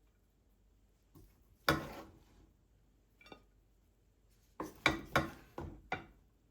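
Kitchenware being handled: knocks and clinks that ring briefly. One loud clink comes about two seconds in, a lighter one follows, and a quick run of four or five comes near the end.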